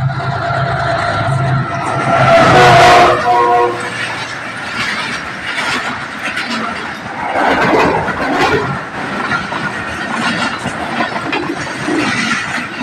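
Pakistan Railways GEU-40 diesel-electric locomotive passing at speed with the Shalimar Express: a steady engine hum, then a short horn blast at the loudest moment about two and a half seconds in. After that the coaches go by in a continuous rattle, with wheels clicking over the rail joints.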